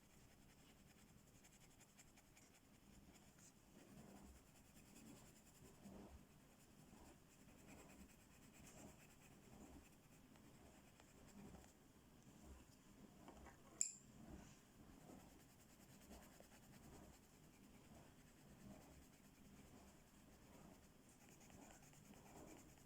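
Faint, steady back-and-forth strokes of a coloring tool rubbing on a coloring-book page, with one sharp click about two-thirds of the way through.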